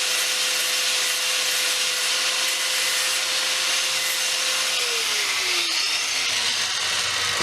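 Angle grinder with a flap disc grinding the steel head of a body hammer, a steady whine under loud abrasive hiss; about five seconds in the grinder is switched off and its whine falls as the disc spins down.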